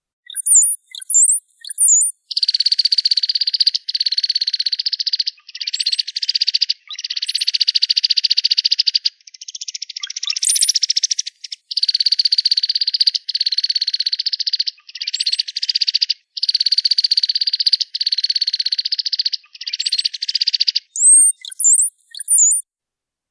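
Cowbird song: a few thin, high whistled glides, then about ten long buzzy trills, each lasting a second or two with short gaps between them, and more high whistles near the end.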